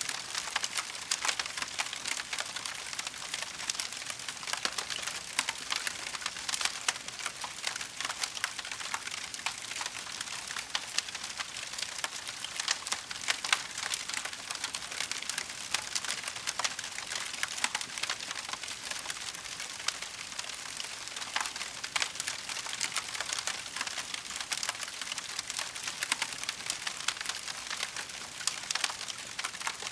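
Burning wood crackling in a fireplace: a steady stream of small, sharp snaps over a soft hiss, with no pauses.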